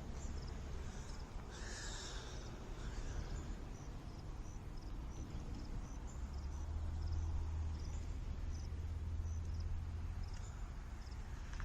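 Crickets chirping outdoors, a short high chirp repeated at a steady pace, over a low steady rumble that swells for a few seconds midway. A brief louder sound stands out about two seconds in.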